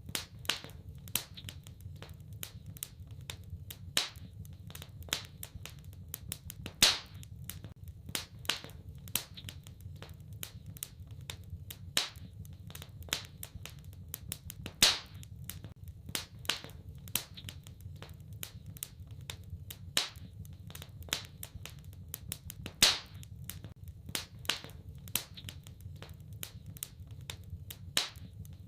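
Wood fire crackling in a fireplace: a steady stream of small irregular snaps, with a few louder pops, over a low steady rumble.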